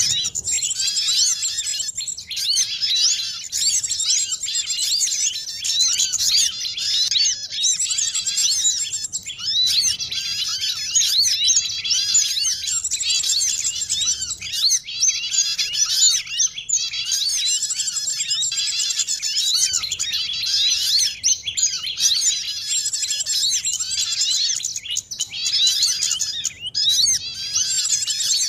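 A dense chorus of many small songbirds chirping and twittering rapidly over one another without a break: a mixed bird-lure call recording of small birds used to draw wild birds in for trapping.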